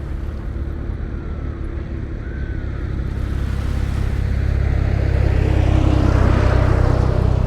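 Motorboat engine running with a steady low hum, growing louder through the second half.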